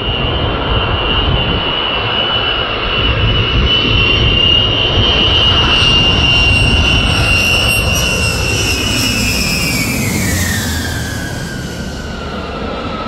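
Boeing B-52's eight TF33 turbofan engines screaming on the landing approach: a loud high whine over a broad rumble, peaking midway, then dropping steeply in pitch about ten seconds in as the bomber goes by.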